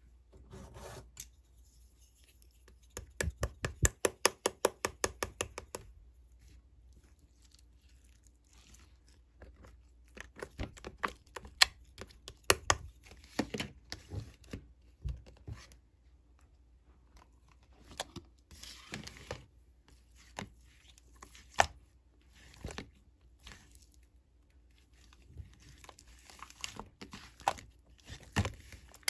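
Close-up handling noises: a quick run of sharp clicks, then scattered clicks, crinkling and crackling.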